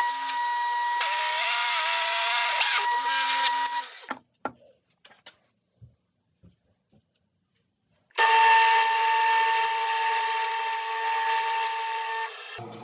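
A small power tool running in two bursts of about four seconds each, with a steady high whine over a hiss of cutting. A few light knocks fall in the quiet gap between them.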